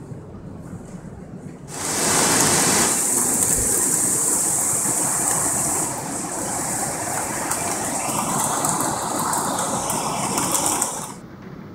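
Heavy downpour of the hail storm: a loud, even hiss that starts abruptly about two seconds in and cuts off abruptly near the end, after a quieter low rumble.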